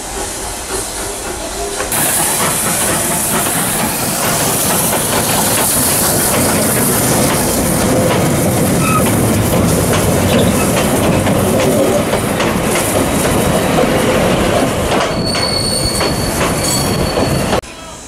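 Heritage goods train of wooden wagons rolling past close by, its wheels clattering over the rail joints; the noise steps up about two seconds in. A thin high wheel squeal comes near the end, and the sound cuts off suddenly.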